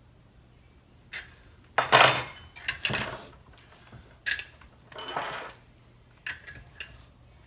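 Metal hand tools and parts clinking and clattering in a series of separate knocks and scrapes, some with a brief metallic ring, the loudest about two seconds in, while a chainsaw bar stud is being removed with a stud remover tool.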